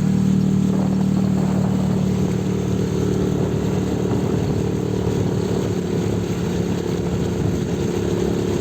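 Boat motor running at a steady speed, a continuous engine drone with no change in pitch.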